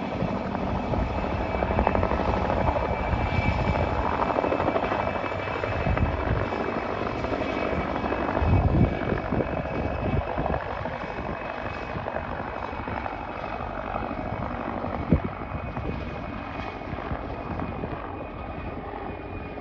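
Mil Mi-2MSB helicopter's twin turboshaft engines and rotor running, a steady roar with a thin high turbine whine, slowly fading over the last several seconds. Two brief low bumps stand out about nine and fifteen seconds in.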